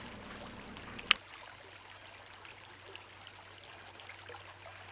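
Brook babbling and trickling steadily, with one sharp click about a second in.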